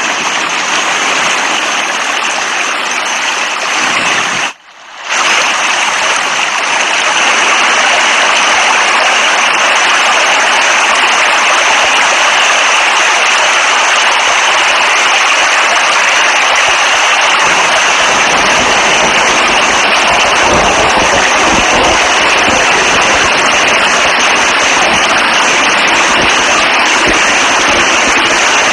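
Steady, loud rain. It cuts out briefly about five seconds in and comes back, and a low rumble joins in past the middle.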